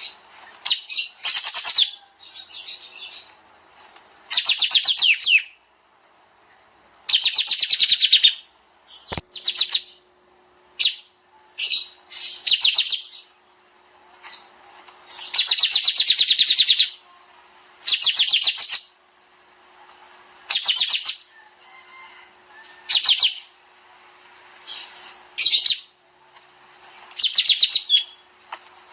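Kapas tembak bird singing in dense, rapid bursts of chattering trills, one burst after another with short pauses, each lasting up to about a second and a half. A single sharp click sounds about nine seconds in.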